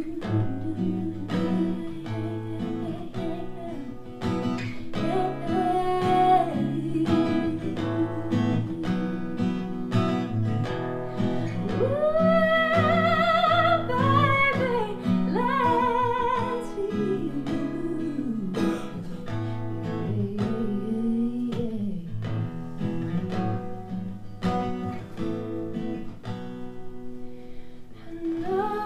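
Acoustic guitar played live under a sung vocal line without clear words, with held notes that waver in pitch about halfway through.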